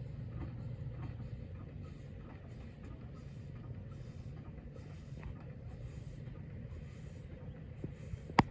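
Low steady mechanical rumble with scattered faint ticks and one sharp click near the end.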